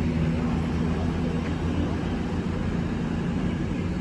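CrossCountry diesel multiple unit pulling out of the station, its underfloor diesel engines giving a steady low drone that eases slightly in level.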